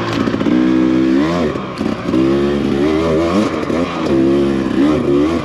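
Dirt bike engine running under load, its pitch holding and then climbing and dropping back about three times as the throttle is worked.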